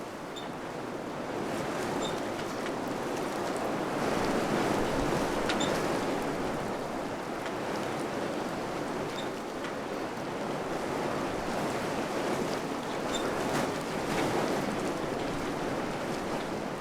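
Wind blowing in gusts, a steady rushing that swells about four seconds in and eases back, with a few faint scattered ticks.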